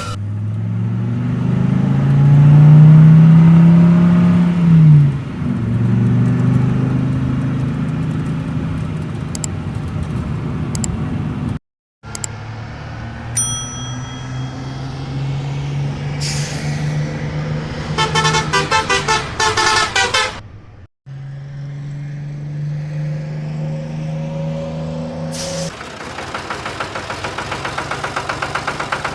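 Heavy-vehicle engine sounds in three sections split by sudden cuts. An engine runs and revs, rising and then falling in pitch, a few seconds in. About 13 seconds in there is a short high tone, with a fast warbling signal from about 16 to 20 seconds. In the last few seconds the engine settles into a rapid, rattling idle.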